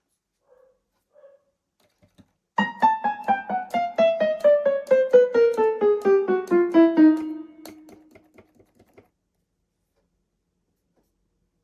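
Casio CTK-6300IN electronic keyboard in a piano voice, being played key by key to test it. A quick run of notes steps steadily down the keyboard at about four or five notes a second; the last note rings on and fades out.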